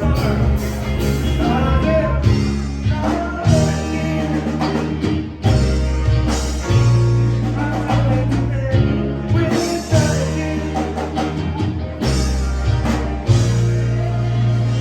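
Live reggae band playing, with bass, drums, guitar and keys, and possibly a singer over the top.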